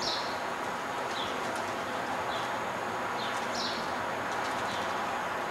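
A small bird chirping again and again, short falling chirps about once a second, over a steady background of distant city noise.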